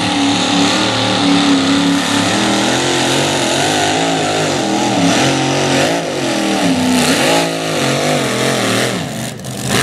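Competition pulling tractor's engine running flat out under load during a pull. Its pitch wavers up and down as the tractor runs unsteadily, then drops away near the end.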